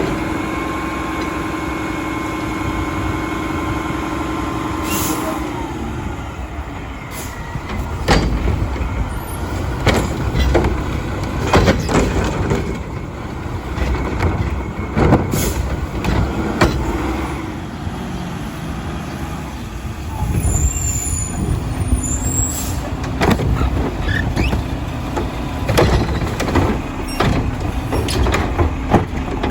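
Mack LR garbage truck with a Heil Odyssey body and Curotto Can working: a steady whine over the engine for about the first five seconds, then repeated clanks and bangs over the running engine.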